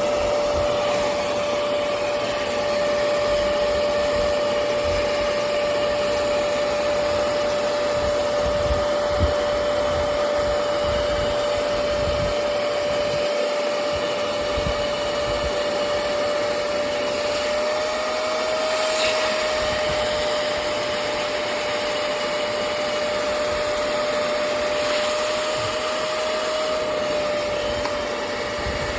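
Hoover CleanSlate Plus portable carpet and upholstery spot cleaner running steadily, its suction motor giving a steady whine that lifts slightly in pitch twice, about two-thirds of the way in and near the end.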